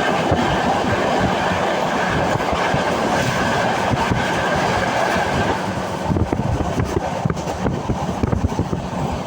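Passenger train running along the track, heard from inside a coach: a steady rumble of wheels on rails with clickety-clack. About six seconds in, the rumble eases slightly and separate rail-joint knocks stand out more.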